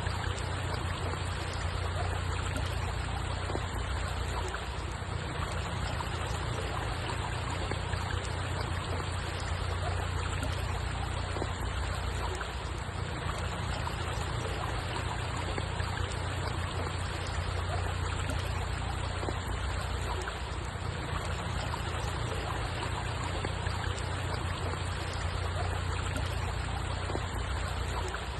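Steady rushing water with a low rumble underneath, an even, unbroken noise like a flowing stream.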